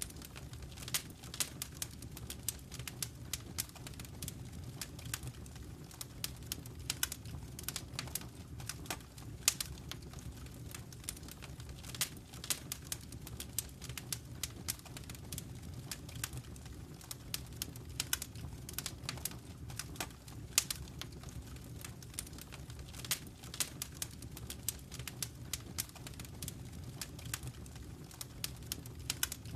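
Wood fire crackling in a fireplace: frequent, irregular sharp pops and snaps over a steady low rumble of the burning flames.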